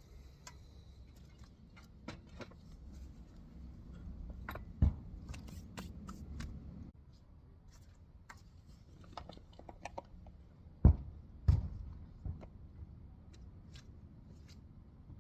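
Tools and small metal parts being handled: scattered light clicks and clinks, with a sharp knock about five seconds in and two more about a second apart near eleven seconds.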